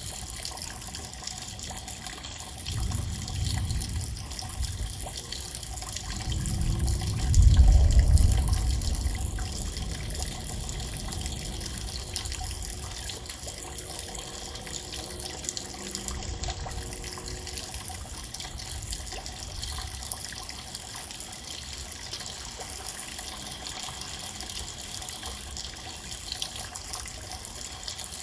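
Steady rain, an even hiss. Two low rumbles swell about three and seven seconds in, the second louder and longer.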